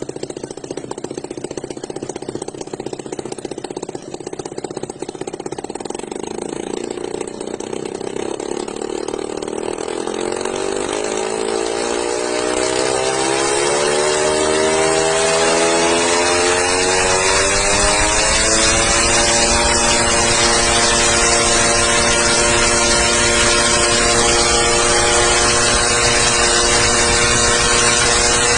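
Engine of a homemade aircraft running, then revving up: its pitch climbs steadily for several seconds and it holds at high speed, getting louder.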